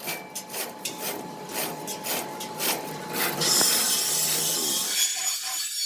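A hand tool rasping back and forth on a surface, about three or four strokes a second, then giving way to a steadier hiss in the second half.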